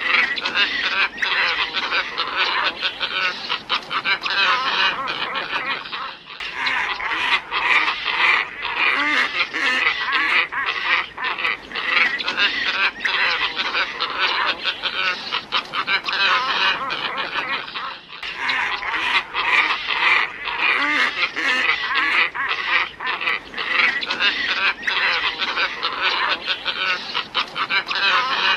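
Glossy ibis lure recording: a dense, continuous flock chorus of calls, with brief dips about six seconds in and again about eighteen seconds in.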